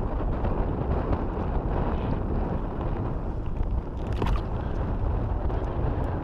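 Gusty wind buffeting the microphone, a steady low rumble that rises and falls a little.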